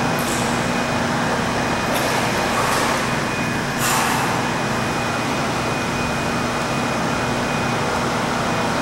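Steady rushing noise of churning spa-pool water with a low hum from the pool equipment, and a few brief hissing bursts between about two and four seconds in.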